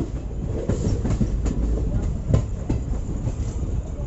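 Passenger train coach running along the track: a steady low rumble, with irregular clacks and knocks from the wheels passing over rail joints.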